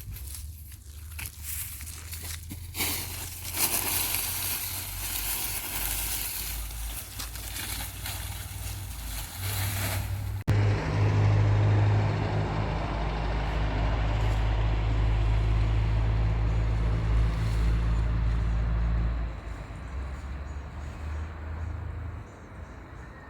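A vehicle engine running steadily and low-pitched, under loud rustling, wind-like noise for the first ten seconds. About ten seconds in, the sound changes abruptly and the engine comes through much louder, easing off a few seconds before the end.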